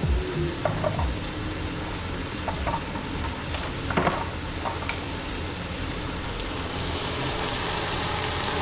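Burrito filling frying with a steady sizzle while it is stirred, with a few light clicks of the utensil against the pan, the sharpest about four seconds in.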